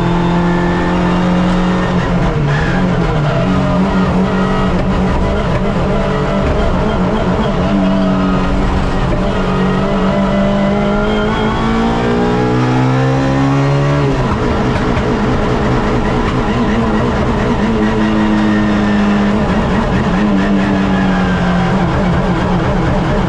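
Suzuki Swift race car's engine heard from onboard, running hard. About ten seconds in, its pitch climbs steadily, then drops suddenly on an upshift at about fourteen seconds.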